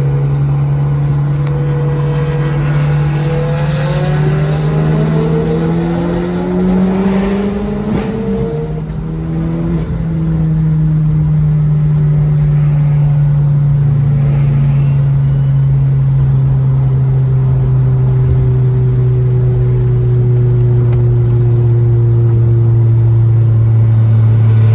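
Car engine running loud at a steady drone, its pitch rising briefly about seven seconds in and then sinking slowly, while other car engines rev more faintly.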